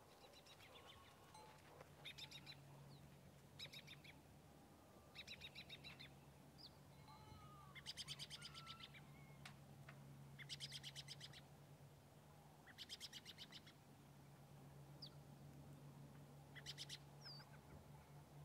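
A bird's faint, short, rapid chattering trills, repeated every two to three seconds, about seven in all, with a few softer chirps between, over a faint low steady hum.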